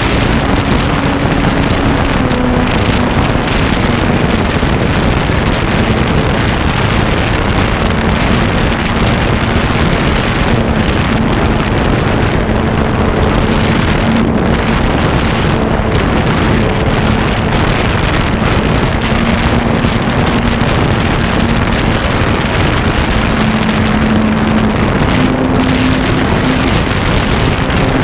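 An RC airplane's motor and propeller running steadily in flight, heard from on board as a hum that shifts slightly in pitch under a loud, constant rush of wind across the microphone.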